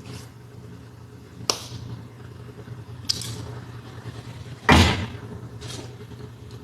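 Knocks and thumps of hand work on a car's interior while seats are being stripped out. There are two sharp knocks, then a louder, longer thump just before the middle and a lighter knock after it, over a steady low hum.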